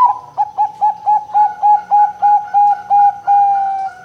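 Zebra dove (perkutut) singing: a sharp opening note, then a quick run of about a dozen short coos, about four a second, ending in one longer note that slides slightly down.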